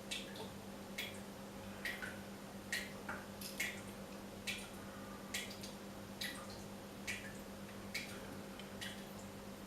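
Dripping tap: water drops falling at an even pace, a little more than one a second, each a short sharp plink, over a faint steady hum.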